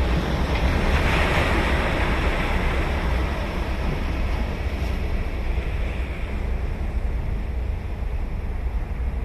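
Ocean surf on a sandy beach: a wave breaks and washes in about a second in, then eases off. Wind rumbles on the microphone underneath.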